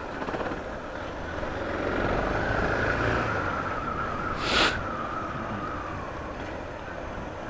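Suzuki DR650 single-cylinder engine running as the motorcycle is ridden, its note rising over the first few seconds and then easing off. A short hiss cuts in about four and a half seconds in.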